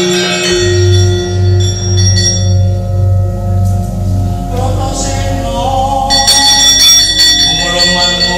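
Javanese gamelan playing: bronze keyed metallophones and gongs ringing in sustained tones. Half a second in, a large gong is struck, and its low hum pulses about twice a second as it dies away.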